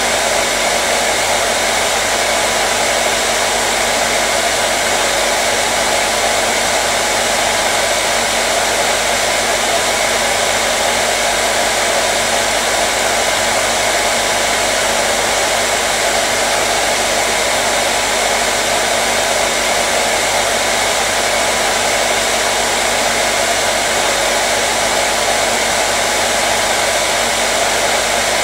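Hair dryer running steadily: an unbroken rush of blown air with a faint steady motor hum, used as white noise.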